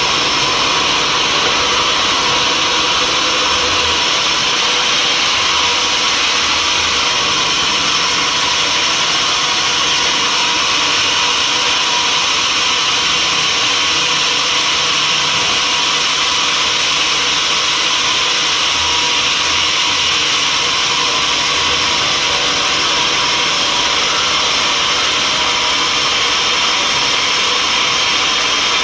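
Sawmill saw running steadily: a loud, even, unbroken machine noise.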